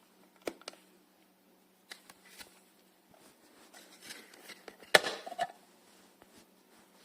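Scattered light clicks and knocks of things being handled, with one sharper knock about five seconds in followed by a brief rattle.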